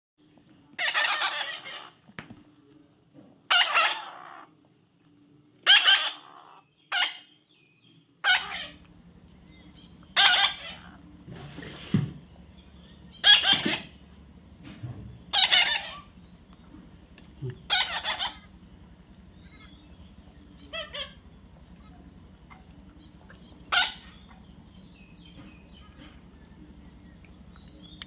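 Parrot squawking: a series of short, harsh calls about every two seconds, growing sparser after about 18 s. A low steady hum sets in about 8 s in.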